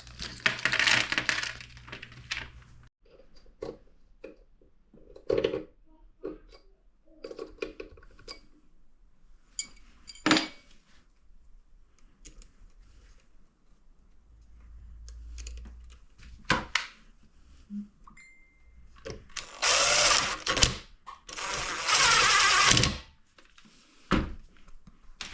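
Hand tools and small metal engine parts clicking and knocking during engine assembly, then two loud bursts of noise lasting about a second each near the end.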